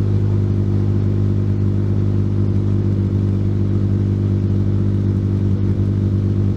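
2016 Dodge Charger's 3.6-litre V6 idling steadily through a Carven TR muffler with straight-piped rear exhaust, a low, even exhaust note with no revving.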